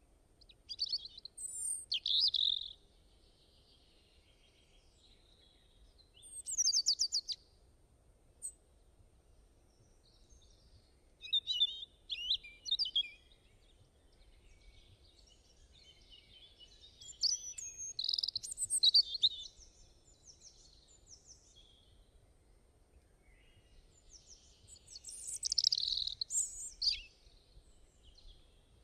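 Songbirds singing in five short bursts of high chirps and trills a few seconds apart, over faint steady background noise.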